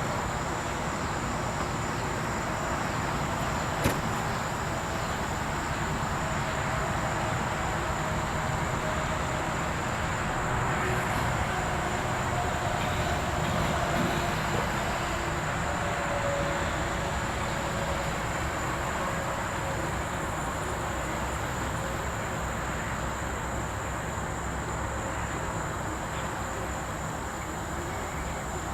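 Steady outdoor background noise with a continuous high-pitched insect drone over it. A single sharp click comes about four seconds in.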